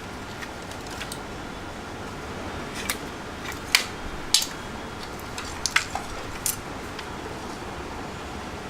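About eight short, sharp clicks or clinks, the loudest two close together a little after the middle, over a steady hiss.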